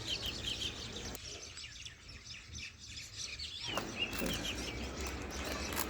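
Small birds chirping in the background: many short, high calls, with a low background hum.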